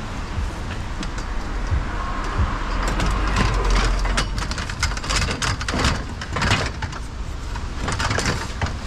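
A vehicle passing with a swelling rumble, then a run of knocks and rattles as a bare metal patio umbrella frame is handled.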